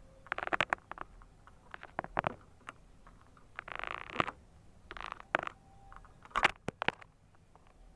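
A canary moving about in its cage: irregular sharp clicks and short rattling bursts in clusters every second or two, with no clear whistled song.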